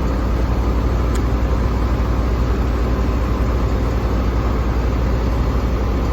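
An engine idling steadily, with a fast, even pulsing low hum, and a single sharp click about a second in.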